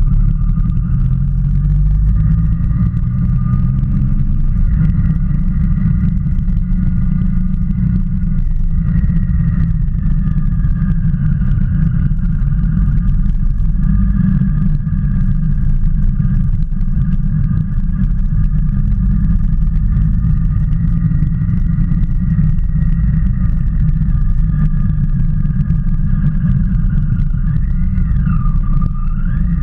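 Motorcycle engine running at road speed, heavy wind rumble on the microphone over it. The engine's pitch drifts slowly up and down, with a quick dip and rise near the end.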